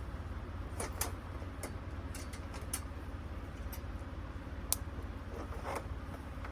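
Scattered light clicks and ticks, about seven over the few seconds, over a steady low hum.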